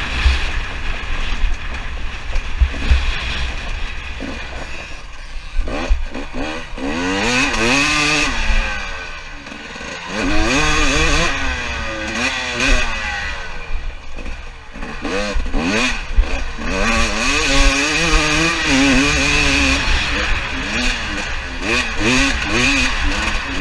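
Two-stroke KTM 300 TPI dirt bike engine being ridden, its pitch climbing and dropping again and again as the throttle is worked and gears change, easing off briefly twice.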